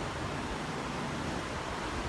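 Steady rushing noise of sea surf and wind on the microphone.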